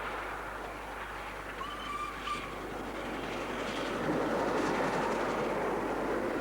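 Steam train running, with a short steady whistle note about a second and a half in; the train sound grows louder from about four seconds in.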